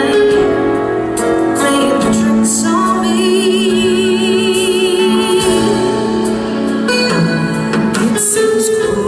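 Live pop music: a woman singing long held notes over band and keyboard accompaniment, with one note wavering in vibrato in the middle.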